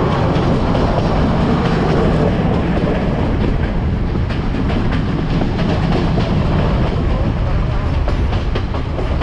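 S14 diesel multiple unit train running along the line, heard from alongside the carriages: a steady, loud rumble of wheels on rails with light, frequent clicking from the track.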